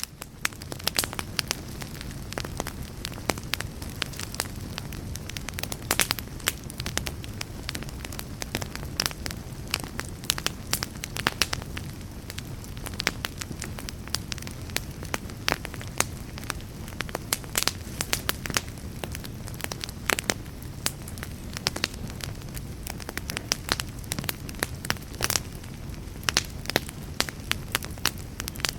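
Burning fire crackling steadily, with many sharp, irregular pops over a low rumble of flames.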